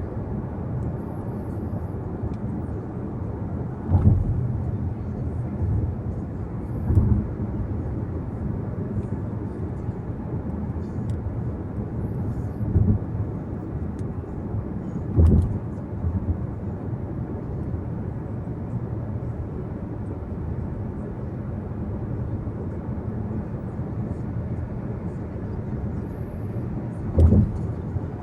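Car interior road noise while driving: a steady low rumble of tyres and engine, broken by about five short low thumps.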